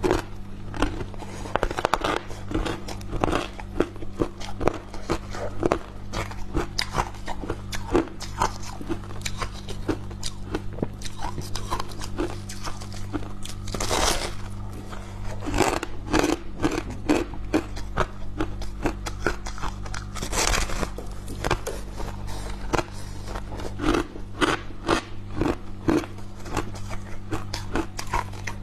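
Freezer frost being bitten and chewed: a dense run of crisp crunches and crackles, with a couple of longer scraping crunches about a third and two-thirds of the way in.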